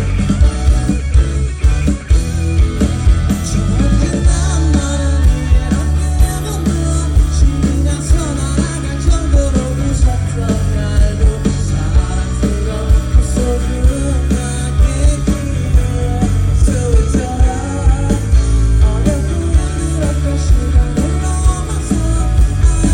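Live band with a singer performing a pop-rock song, drums, bass and guitar under the vocal, heard as loud amplified music from the crowd.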